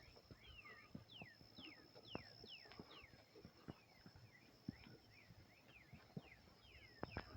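Faint birdsong: a run of short chirps, each sliding quickly down in pitch, about two a second, over a steady thin high tone.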